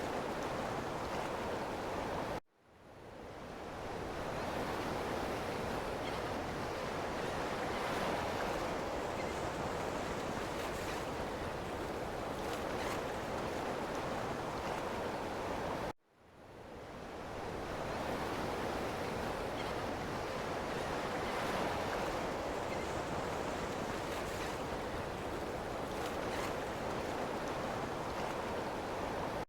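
Ocean waves washing onto a shore, a steady rushing surf sound. It cuts out abruptly about two and a half seconds in and again about sixteen seconds in, each time fading back up over a second or two.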